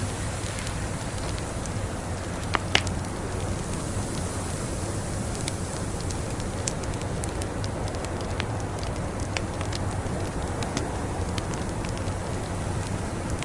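Wood fire crackling in a fireplace: scattered sharp pops and snaps over a steady rushing hiss, with two louder pops close together about two and a half seconds in.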